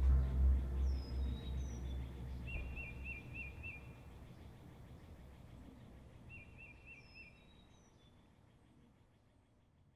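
Birds calling, a short repeated trill of four or five notes twice, with a few higher falling chirps, over a low rumble that fades away in the first few seconds. The whole sound fades out near the end.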